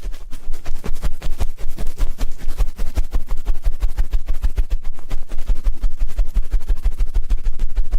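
Ear-cleaning ASMR sounds: an ear pick scratching and rubbing close against the microphone in quick, steady strokes, several a second, each with a dull low thump.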